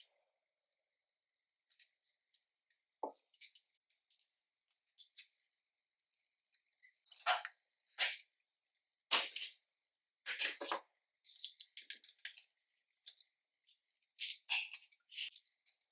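A mix of store-bought slimes being squeezed and worked by hand, giving irregular short squishes and crackles with brief pauses between them.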